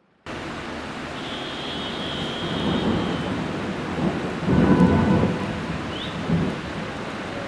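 Heavy rain pouring in a thunderstorm, starting abruptly, with thunder rumbling loudest a little past halfway and a thin high steady tone early on.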